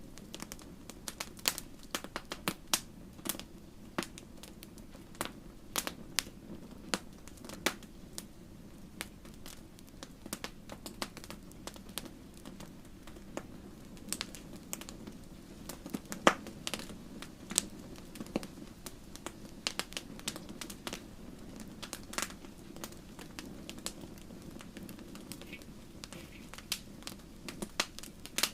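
Wood fire in a fireplace crackling: irregular sharp pops and snaps over a steady low hiss of burning.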